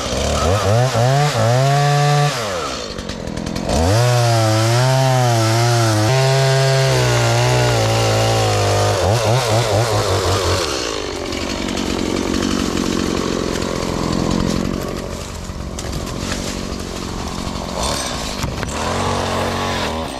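Stihl two-stroke chainsaw running at full throttle and cutting log wood, its pitch wavering under load. It drops off briefly about two seconds in, comes back for a long cut, then falls away around the middle and keeps running at a lower, quieter level.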